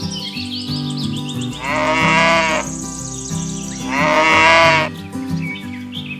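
Two long animal bleats, one starting about a second and a half in and the other about four seconds in, over background music with steady held notes.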